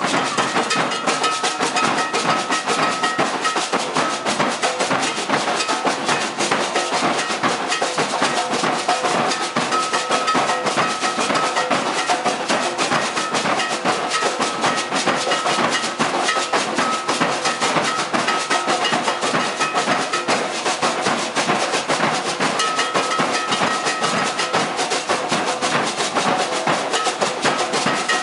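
Maracatu de baque virado percussion ensemble playing a steady, dense groove on alfaia drums, snare drums, bell and shakers. A high ringing tone comes and goes above the drumming.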